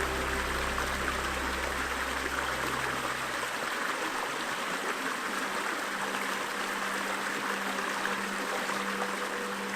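A river flowing steadily, a continuous rush of water. Under it a soft music pad plays long held low notes: the deepest notes fade out about a third of the way in and a new held note comes in about halfway.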